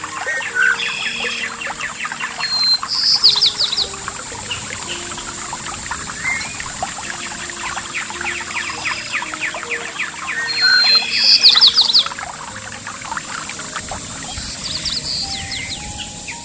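Running water trickling and splashing steadily, with birds singing over it in short, rapid trilled phrases; the loudest bursts of song come about 3 seconds in and again around 11 seconds in. A steady thin high tone sits beneath it all.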